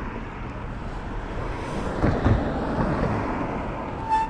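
Wind on the microphone and road traffic noise during an e-bike ride on a city street, swelling about halfway through. A brief high squeak comes near the end.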